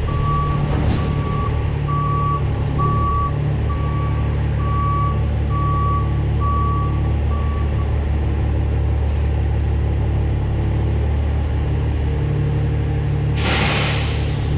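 Heavy truck backing up: its reversing alarm beeps about once a second over the steady drone of the diesel engine, stopping about eight seconds in. Near the end comes a short, loud hiss of air, like an air brake being set.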